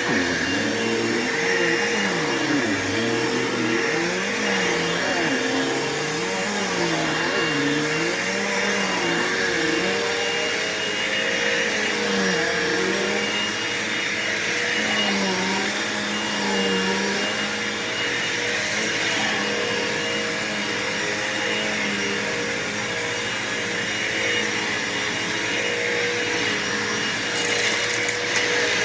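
Bissell PowerForce Bagless upright vacuum cleaner running on carpet. Its motor gives a steady whine, and under it a lower tone rises and falls every second or so, mostly in the first half.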